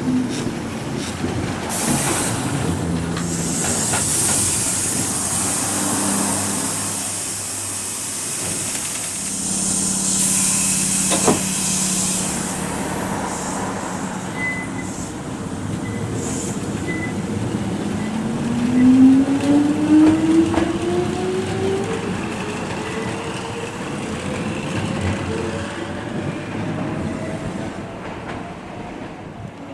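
Nose Electric Railway 5100 series electric train at a station: its motor whine falls in pitch as it brakes to a stop, with bursts of air hissing while it stands. About 18 seconds in, the traction motors whine up steadily in pitch as it pulls away, then fade.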